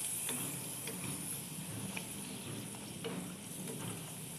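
Flower pitha dough frying on low heat in a pan of hot oil: a steady sizzle with small crackles now and then, while a metal spoon scoops oil over the tops and basts them.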